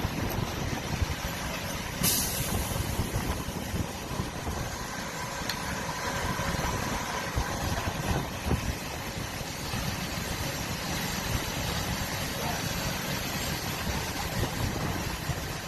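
Fire engine running, with a short air-brake hiss about two seconds in.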